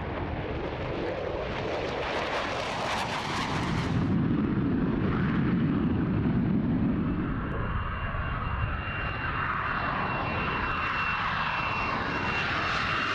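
Military jet aircraft engines running, a continuous noisy rush that shifts abruptly about four seconds in; a steady high whine comes in about halfway and holds.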